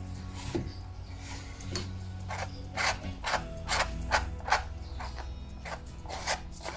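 Paintbrush scrubbing and stroking on canvas in short, irregular rasping strokes, a few a second, busiest in the second half, over quiet background music.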